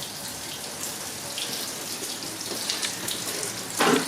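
Water from a hose running steadily into a glass aquarium as it is filled for a leak test after resealing, a continuous rushing with small splashes. A brief louder sound comes just before the end.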